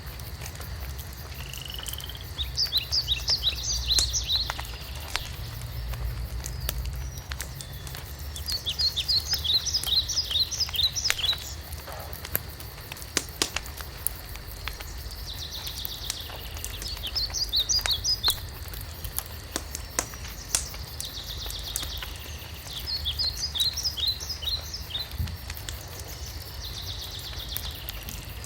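A songbird repeating the same short song about every six seconds, each a quick run of high notes. Underneath, a wood fire crackles with scattered sharp pops, over a low rumble.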